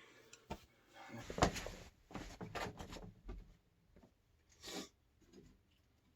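Handling noises: a few short knocks and clicks with some rubbing, the loudest knock about a second and a half in, as a sediment-coated water heater element is handled.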